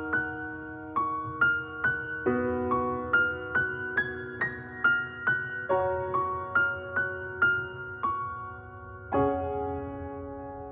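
Background music: a slow, gentle piano intro, single notes struck about twice a second over held chords that change every few seconds.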